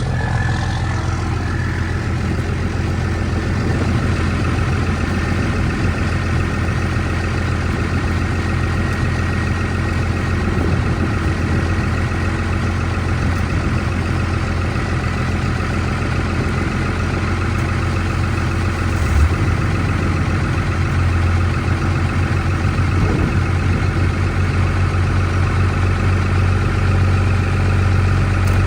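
Old vehicle engine idling steadily after a cold start in about 0 °F weather, with one brief thump about two-thirds of the way through.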